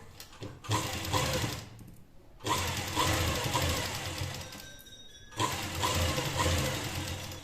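Sewing machine stitching in three runs, stopping and starting again twice with short pauses.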